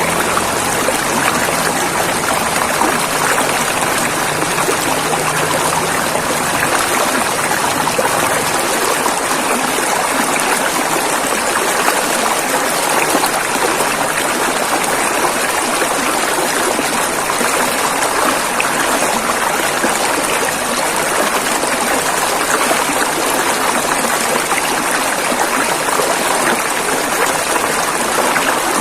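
River water flowing steadily over rocks, an even rushing sound without breaks.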